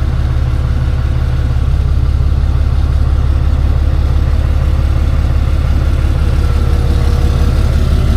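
Tow truck's engine idling steadily, a loud, even low drone.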